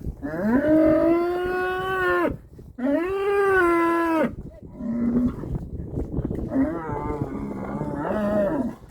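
Cattle mooing: two long, loud moos that each rise in pitch at the start, followed by a short lower moo and a longer, wavering moo near the end.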